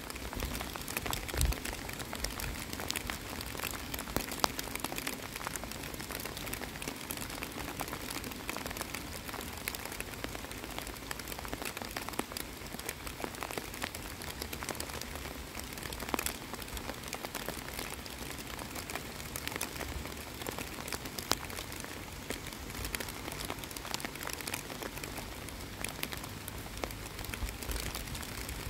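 Steady rain falling on the surface of a pond and the wet grass at its edge, a constant hiss speckled with many small drop taps.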